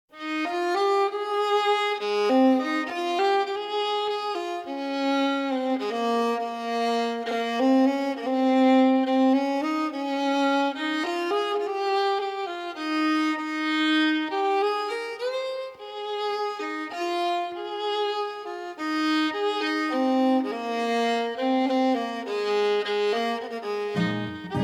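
Background music: a violin playing a slow melody, with lower string notes coming in near the end.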